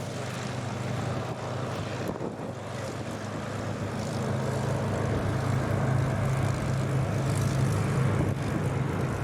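Propeller drone of a Boeing B-17 and an Avro Lancaster, four-engined piston bombers, flying past together. The steady drone grows louder from about four seconds in as they come closer.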